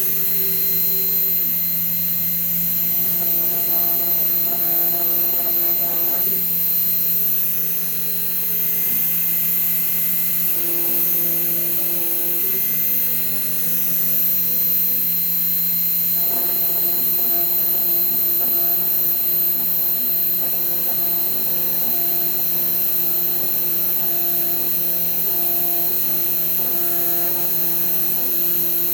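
Fox Alien XE-PRO CNC router running, a steady hum under stepper-motor whines that hold one pitch for a few seconds and then jump to another as the machine changes moves.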